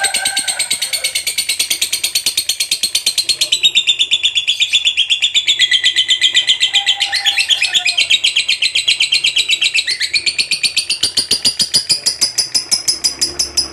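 Lovebird giving its long 'ngekek' song: one unbroken run of rapid, evenly repeated high-pitched chattering notes. The pitch shifts down slightly partway through and drifts back up.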